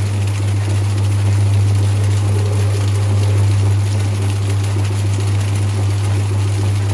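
Whirlpool 3RLSQ8033SWD top-loading washing machine running, a loud steady low hum with even noise over it.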